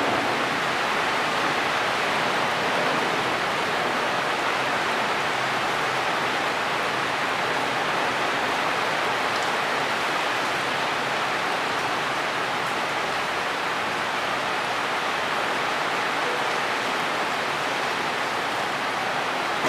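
Heavy rain of a rainstorm falling steadily on dense tree foliage, an even, unbroken rush of water.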